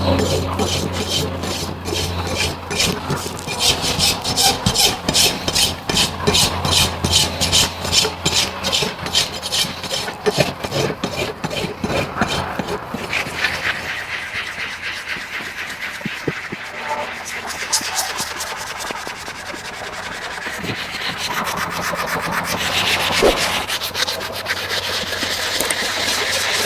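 Rhythmic scraping strokes of a tool on a horse's hoof, about two to three a second. About halfway through, they give way to a steadier, less regular scraping.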